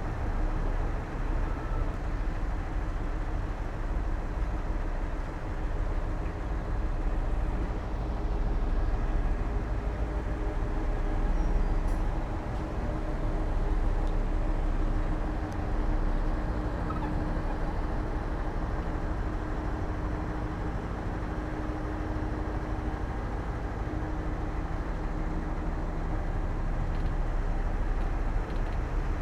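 Diesel engine of heavy earthmoving machinery running steadily under load with a low drone, its loudness swelling and easing gently as it works.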